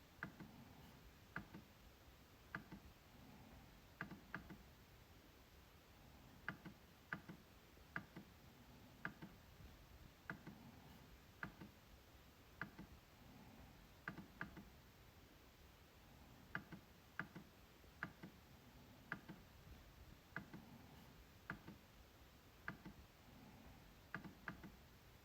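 MacBook trackpad being clicked: sharp, light clicks at irregular intervals, many in quick pairs like double-clicks, about one to two a second.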